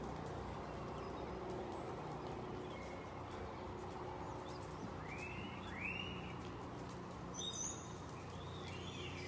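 Small birds chirping: a few short rising-and-falling chirps in the second half, over a steady low hum.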